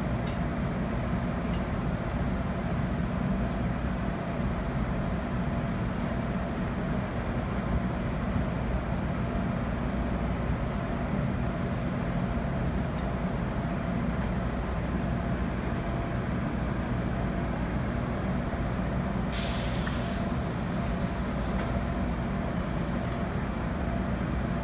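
A stationary GO Transit bilevel commuter train idling at the platform, giving a steady low drone. About twenty seconds in, a short, sharp hiss of air is released, typical of the air brakes.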